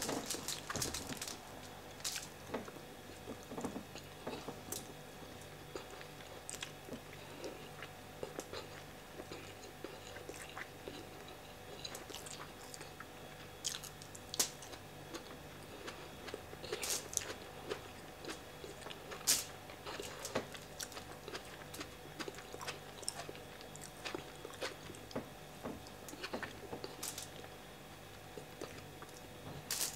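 Close-up mouth sounds of a person eating jollof rice, fried fish and tomato by hand: irregular wet chewing, smacking and biting clicks, with one sharper bite of a tomato slice about halfway through.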